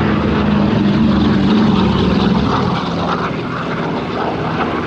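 Piston-engined propeller aircraft droning overhead in a flypast. It is loudest about a second and a half in, then eases slightly.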